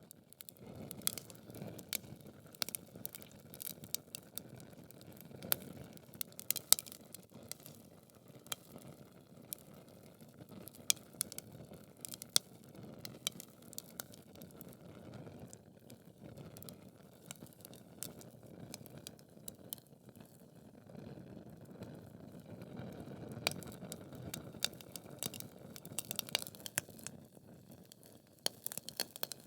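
Wood logs burning in a fireplace: dense, irregular crackling with sharp pops over a low, steady rush of flame, and a louder pop about seven seconds in.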